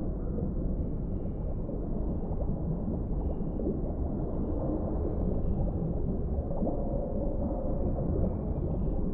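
Underwater deep-sea ambience: a steady, deep, muffled rumble of water, with faint high tones drifting in and out.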